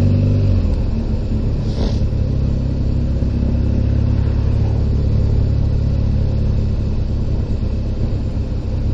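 Motorcycle engine running under way, with a steady low rumble of wind and road noise. The engine's even low tone fades into the rumble about half a second in.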